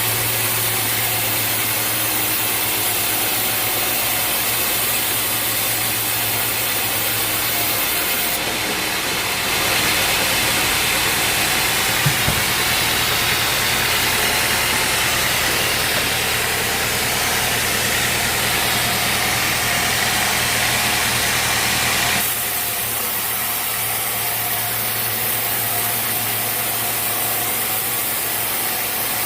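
Sawmill engine running steadily. From about ten seconds in, a louder, higher-pitched noise joins it for about twelve seconds, then drops away, leaving the engine alone again.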